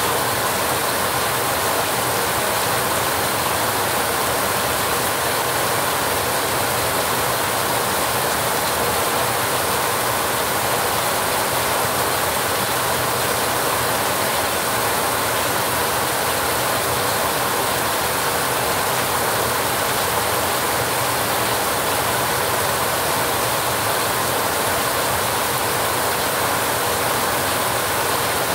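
Heavy rain drumming steadily on a rusty metal roof, a dense, unbroken rattling hiss.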